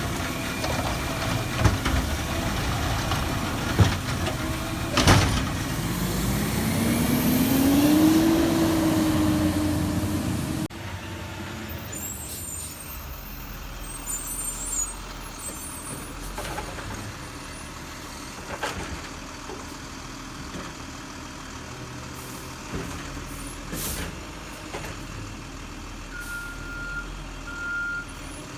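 Garbage truck at work: the engine runs with sharp metal knocks and bangs, then revs up with a rising whine that levels off. After a sudden cut it is quieter, with occasional knocks and two short beeps near the end.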